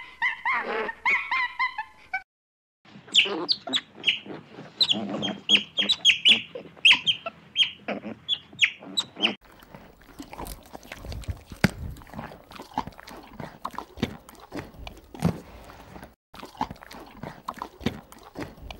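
A young macaque's brief squeaky calls, then, after a short break, several seconds of many quick high chirping calls. About halfway through, a pony grazing takes over: crisp tearing and chewing of grass in short clicks.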